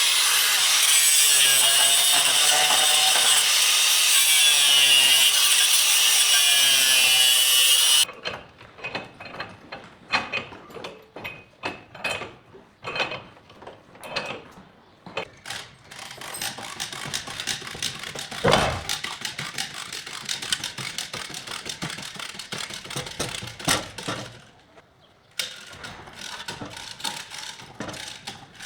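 A power tool runs loudly and steadily for about eight seconds, then cuts off suddenly. Irregular clicks, taps and scraping of hand work on car body metal follow.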